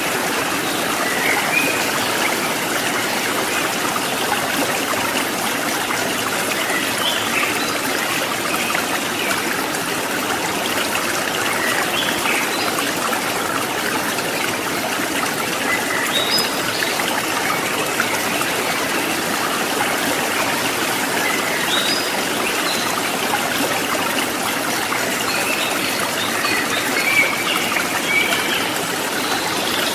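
Babbling stream water, a steady trickle and splash.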